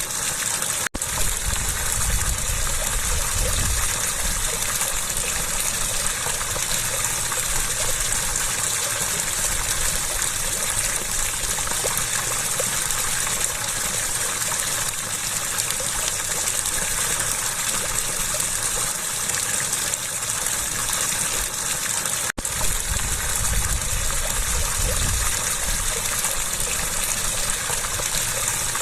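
Running water gushing steadily, an even, hissing rush of flowing water, broken twice by a sudden split-second gap.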